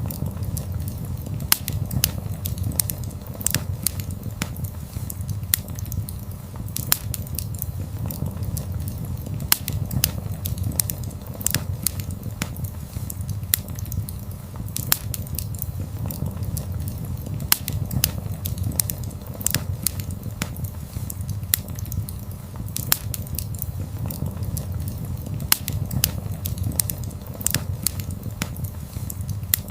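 Wood fire burning, with a steady low rumble under irregular sharp crackles and pops, several a second.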